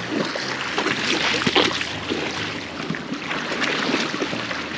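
River current rushing steadily, with many small splashes and ticks of water throughout.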